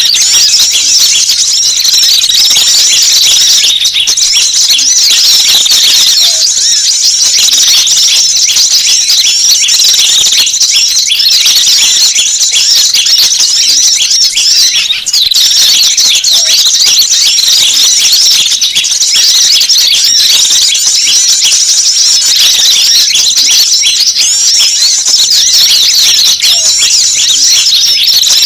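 Loud, unbroken high-pitched chirping and twittering of many small wild birds calling together: a combined bird-lure call recording played to draw in small wild birds.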